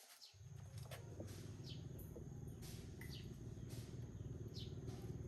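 A bird repeating a short, high, falling chirp about once a second, over a faint low rumble that starts just after the opening and slowly grows louder.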